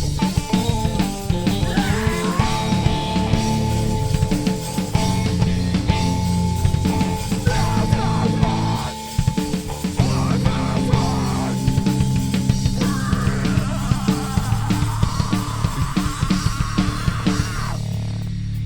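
A rock band playing live, guitars over a drum kit, with a short drop in level about nine seconds in.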